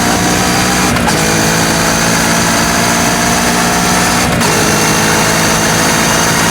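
Kawasaki Ninja 650 parallel-twin with a full Akrapovič exhaust, pulling under acceleration while riding. The engine note rises gently and breaks briefly at two upshifts, about a second in and again past the four-second mark, dropping in pitch after each.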